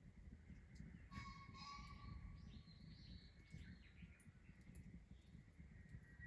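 Faint bird calls: a few short chirps and whistles in the first few seconds, over a quiet low outdoor rumble.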